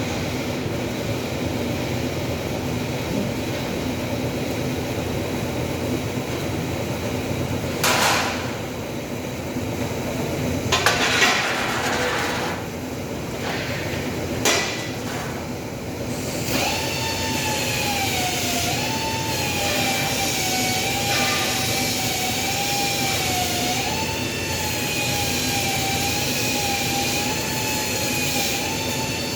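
Steady metal-shop machinery noise with a few sharp metallic knocks, about eight, eleven and fourteen seconds in. From about sixteen seconds on, a wavering whine joins it.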